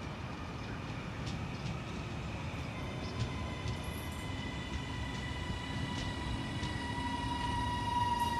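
Train at a station platform: a steady rumble with a whine that slowly falls in pitch and grows louder toward the end.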